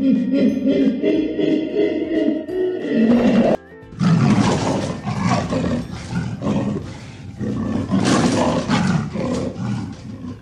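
Background music, joined about four seconds in by a big cat's loud, harsh growling roar that runs for several seconds.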